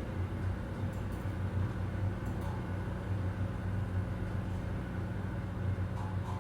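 Office room ambience: a steady low hum and rumble, like air conditioning or ventilation, with a few faint clicks.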